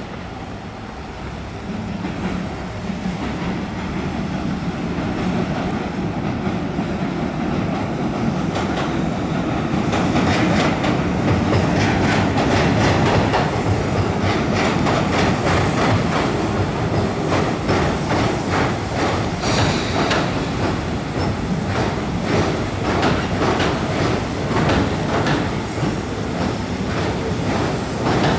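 Tobu Skytree Line train crossing the steel railway bridge over the Sumida River, its wheels clattering over the rail joints. The sound swells over the first ten seconds, then holds as a fast, steady clickety-clack.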